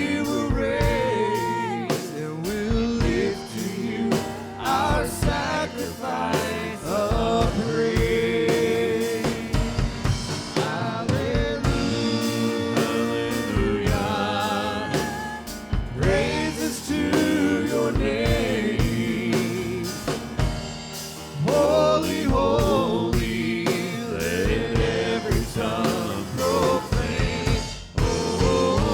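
Live gospel worship music: voices singing a praise song over a drum kit keeping a steady beat.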